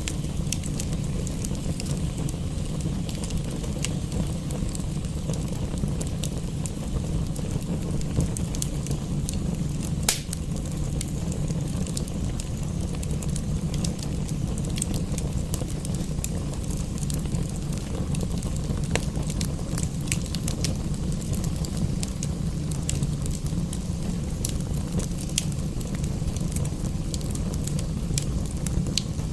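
Wood fire crackling, with frequent small sharp pops and one louder pop about ten seconds in, over a steady low rumble.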